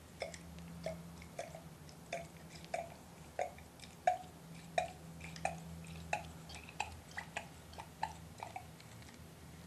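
Nitro fuel being squeezed from a fuel bottle into an RC truck's tank: a regular series of short gurgling drips, about one every two-thirds of a second.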